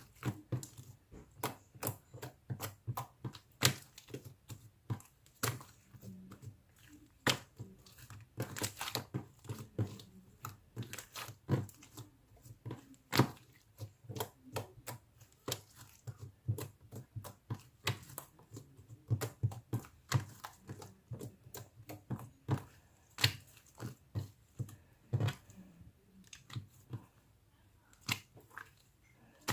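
Slime being squeezed and worked by hand, giving a steady run of irregular sharp clicks and pops, several a second.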